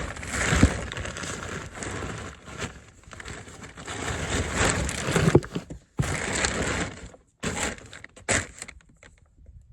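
Folded plastic kayak being shifted around inside a car: irregular scraping and rustling with sharp knocks, the loudest about half a second in and another about five seconds in.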